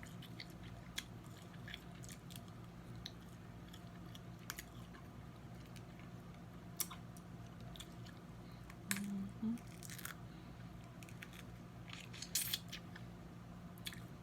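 Snow crab leg shells being cracked and snapped open while eating, a scattering of sharp crunching clicks with louder cracks about seven, nine to ten and twelve seconds in.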